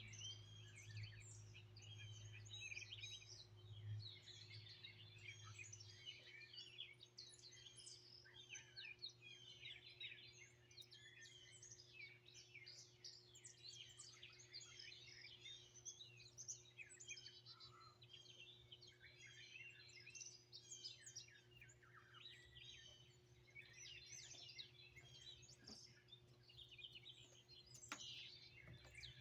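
Faint chorus of several small songbirds chirping and singing continuously, many overlapping short chirps and trills. A low steady hum runs underneath, dropping in level about six seconds in.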